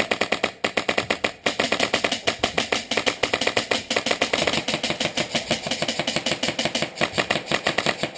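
Airsoft guns firing on full-auto: a fast, even rattle of shots, many per second, with two short breaks in the first second and a half before running on without pause.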